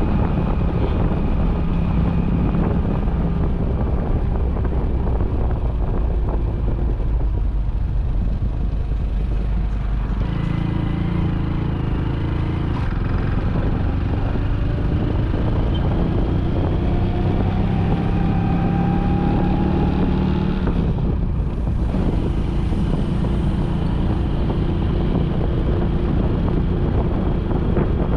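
Motorcycle engine running while riding, with wind buffeting the microphone. The engine note changes about ten seconds in.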